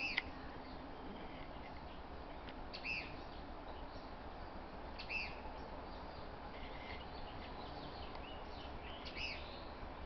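A small bird chirping: short high calls every two to three seconds, with fainter chirps between, over steady faint background noise.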